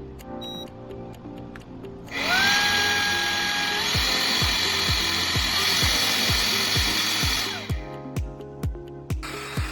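Cordless handheld vacuum motor switched on, spinning up with a rising whine and then running steadily with a loud rushing hiss for about five seconds before cutting off. It comes on again, quieter, near the end. Background music with a steady beat plays throughout.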